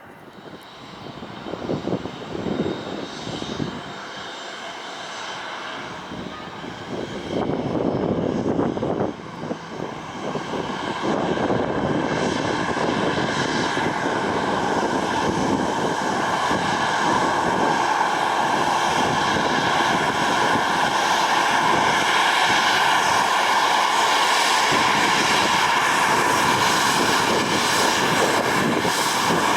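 Boeing 737-800's CFM56-7B jet engines running close by, growing louder over the first dozen seconds and then holding steady, with a steady whine over the rush of the engines.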